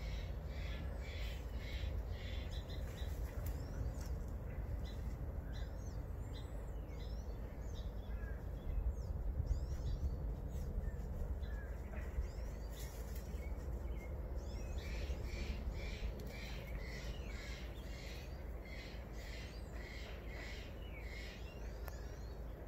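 Garden songbirds singing: a rhythmic series of short repeated notes, about three a second, which stops after a few seconds and starts again about fifteen seconds in, with scattered chirps in between. A steady low rumble lies underneath.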